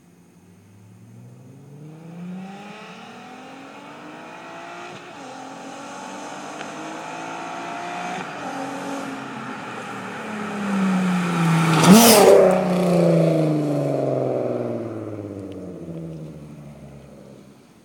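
Volkswagen Golf R32's 3.2-litre VR6 engine, breathing through an aftermarket cat-back exhaust and a test pipe in place of the catalytic converter, accelerating as the car approaches. It passes loudest about twelve seconds in, the note dropping in pitch as the car drives away and fades.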